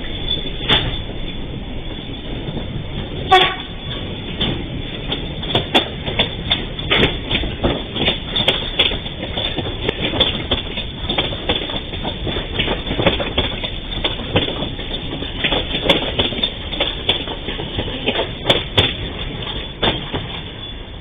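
Passing trains' steel wheels knocking over rail joints and the level crossing in an irregular stream of clacks over a steady rumble, as a freight train clears and an electric passenger train goes by. A short toot sounds about three seconds in.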